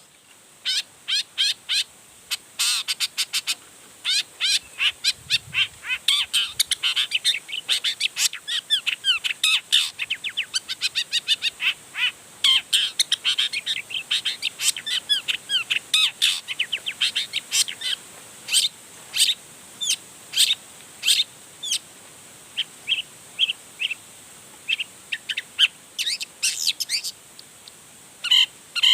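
Long-tailed shrike (cendet) singing a fast, varied song of rapid chattering notes and quick whistled slurs, reeling off its repertoire of mimicked phrases. The song is almost unbroken for the first two-thirds, then thins out into short separate notes.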